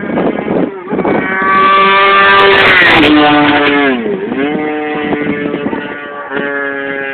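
Track motorcycle engine at high revs. It is loudest about two to three seconds in, its pitch falls sharply around three seconds in and again near four seconds, then it holds and climbs again near the end.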